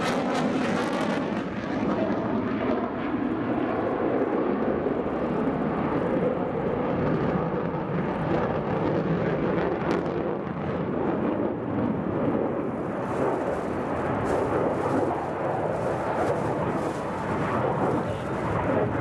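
Jet noise from a JASDF F-15J fighter's twin turbofan engines in flight: a steady, loud rush that grows brighter about two thirds of the way through.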